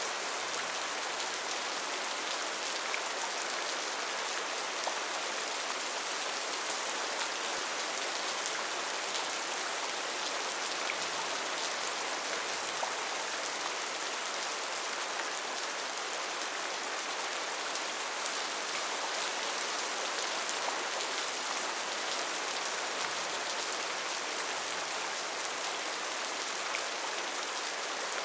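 Steady heavy rain drumming on a tin (sheet-metal) roof, a dense even hiss sprinkled with countless light drop ticks.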